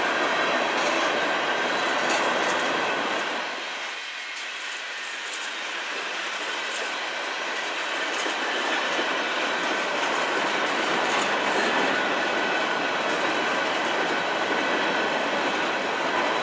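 Freight cars of a passing manifest train, covered hoppers and autoracks, rolling by: steady wheel-on-rail noise from the cars, easing off for a few seconds about four seconds in and then building again.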